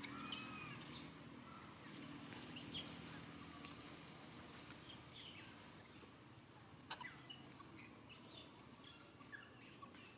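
Faint outdoor ambience: scattered short, high bird chirps over a steady thin high-pitched whine.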